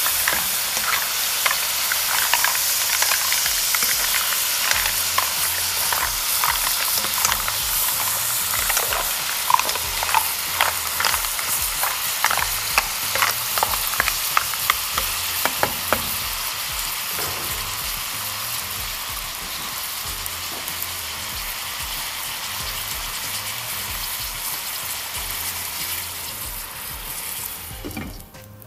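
Green mussels sizzling in a hot pot as they are stirred, with shells clicking and knocking against the pot. The clicking thins out about halfway through while the sizzle goes on. Near the end the sizzle drops off sharply as a glass lid goes on the pot.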